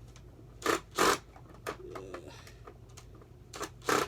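Short scrapes and knocks of hands and a tool on the plastic housing of a Hoover WindTunnel upright vacuum while a hidden screw is being reached: two brief bursts about a second in, and two more near the end.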